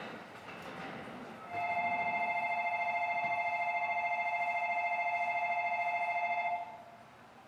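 Electronic train departure bell ringing as the monorail gets ready to leave: one steady, fast-fluttering ring lasting about five seconds that stops abruptly.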